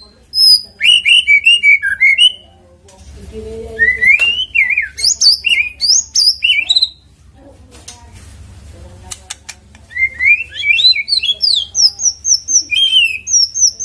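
White-rumped shama singing: loud, rapid whistled phrases of sliding notes, in three bouts with short pauses between.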